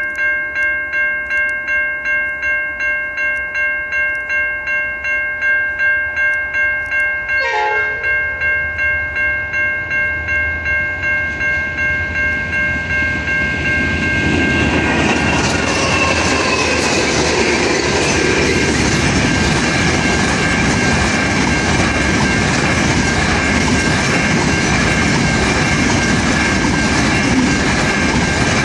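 Level crossing warning bell ringing in fast, even strokes over a steady tone. About halfway through, a diesel-hauled freight train reaches the crossing, and its loud rumble and wheel clatter take over and carry on as the train passes.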